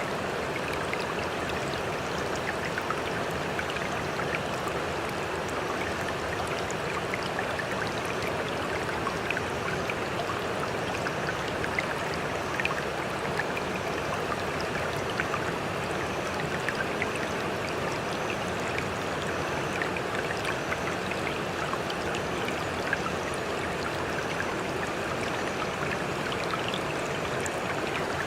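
Sea water washing and trickling in a steady, even stream, with small splashes and drips scattered through it.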